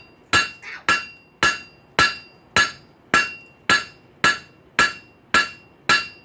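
Hand hammer striking a hot rail spike on an anvil, drawing it narrower, in a steady run of blows about two a second, each with a short bright metallic ring and one lighter tap after the first blow.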